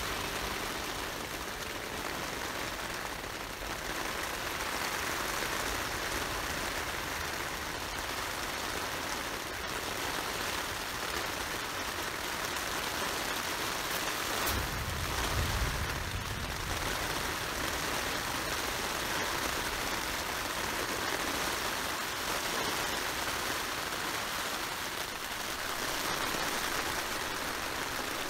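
Steady rain drumming on a tent's fabric, heard from inside the tent, with a brief low rumble about halfway through.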